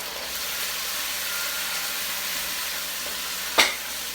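Sauce sizzling in a hot pan with sesame oil and garlic, a steady hiss, with one sharp clack about three and a half seconds in.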